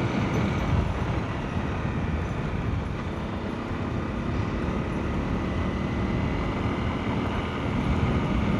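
Motorcycle riding along a gravel back road: steady engine, wind and tyre noise.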